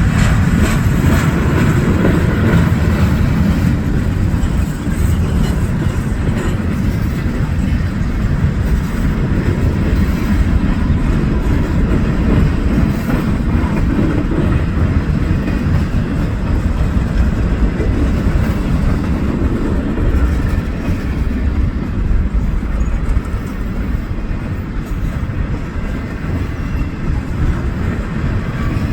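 A train passing close by, its rail cars rolling past in a loud, steady run of noise heaviest in the low end.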